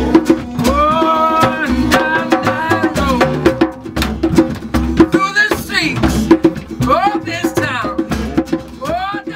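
Live acoustic music: a voice singing long held notes over instruments, with sharp percussion hits.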